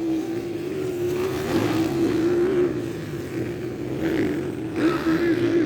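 Small-displacement motocross bikes running and revving on the track, their engine note held fairly steady with slight rises and falls.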